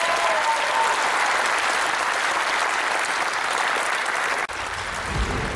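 Theatre audience applauding steadily, cut off abruptly about four and a half seconds in.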